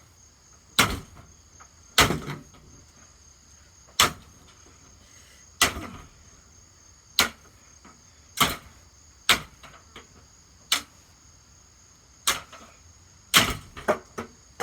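Hammer striking a Hampton Bay ceiling fan: about a dozen sharp blows, one every second or so, coming quicker near the end.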